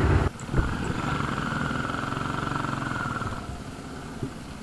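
Benelli Imperial 400's single-cylinder engine running while riding. A loud rush of wind noise cuts off sharply just after the start, leaving the engine's steady note, which grows quieter a little past halfway.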